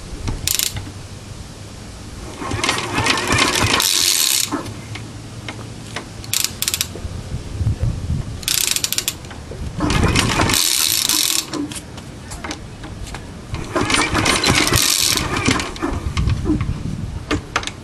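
Alpha De Laval engine being started: several uneven bursts of mechanical clatter and hiss, each one to two seconds long, with quieter pauses between.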